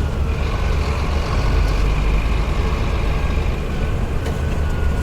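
Scania truck's diesel engine and road noise while driving, a steady low rumble with a faint steady whine above it.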